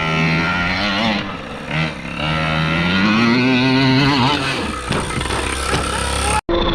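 Small two-stroke gas engine of a large-scale Primal R/C Raminator monster truck revving up and down as the truck is driven, its pitch rising and falling several times. Near the end the sound breaks off abruptly and resumes as a steadier, lower run.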